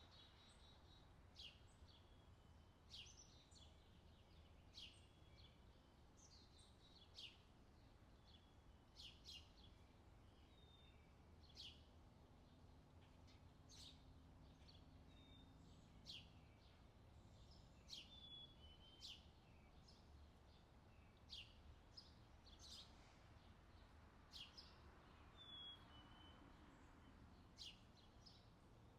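Faint outdoor summer ambience recording of birds chirping: short, high chirps that sweep downward, one every second or two, with a few brief whistled notes over a low, steady background.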